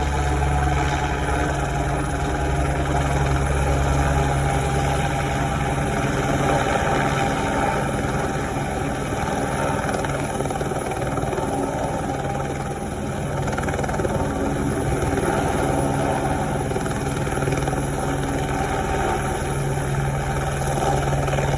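AS350 Écureuil helicopter's turboshaft engine and rotor running steadily, with a low hum that drops away about five seconds in.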